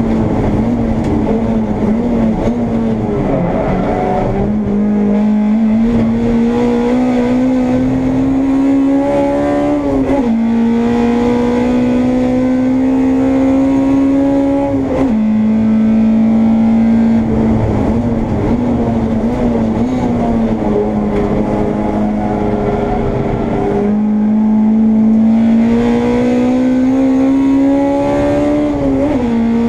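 Honda Integra race car engine heard from inside the car, pulling hard at high revs. The pitch climbs steadily through each gear and drops sharply at each gear change, several times over.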